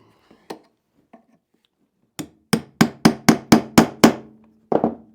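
Hammer striking a punch: one blow, then a quick run of about eight blows at roughly four a second with a ringing hum under them, and one last blow near the end.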